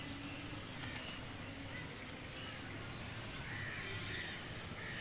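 Faint outdoor background with a few distant bird chirps about two seconds in and again near the end, plus scattered light ticks.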